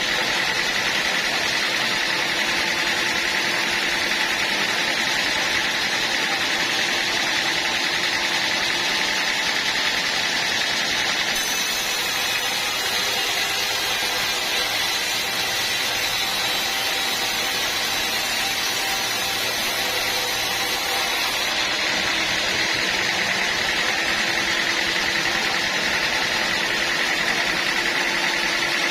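Sawmill machinery running steadily, a motor-driven saw with a constant high whine over a lower hum. Through the middle third the sound turns hissier and brighter, then settles back.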